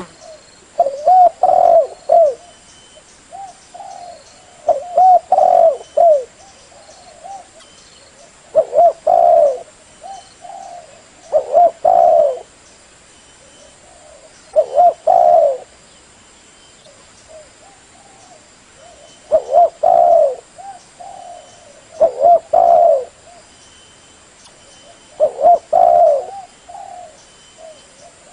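Spotted dove (tekukur) cooing, used as a lure call: short phrases of low, mellow coos repeated every few seconds, with quiet gaps between them.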